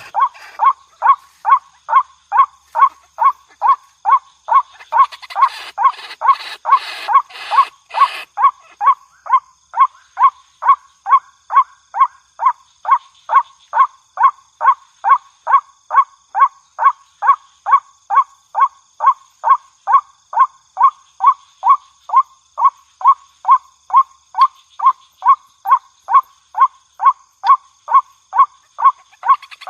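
White-breasted waterhen (ruak-ruak) call repeated monotonously, about two notes a second, from a bird-trapping lure recording. Between about five and eight seconds in, a harsher, noisier layer of calls sounds over the steady series.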